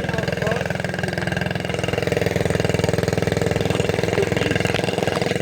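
A vehicle engine idling steadily, its even firing pulses running throughout and getting a little louder about two seconds in.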